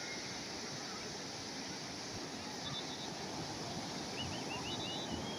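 Calm sea waves washing in, a steady hiss, with a few faint high chirps near the end.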